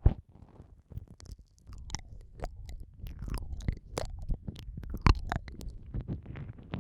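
Close, wet mouth sounds of ear-eating ASMR: irregular lip smacks, tongue clicks and sucking, with a sharp click right at the start and another loud one about five seconds in.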